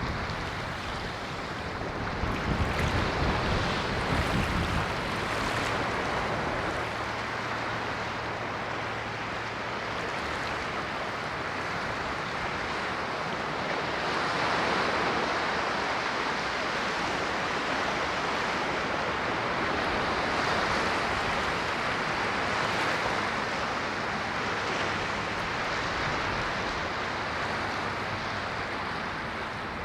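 Ocean waves washing onto the shore: a continuous surf hiss that swells and eases slowly, with a deeper rumble in the first few seconds.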